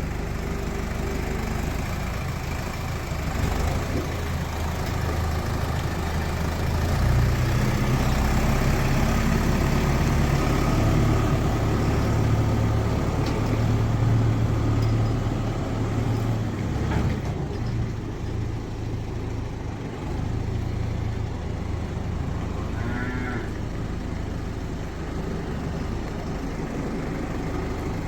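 Tractor engine running as it reverses slowly with a straw blower in tow, growing louder about a quarter of the way in and easing off again after the middle.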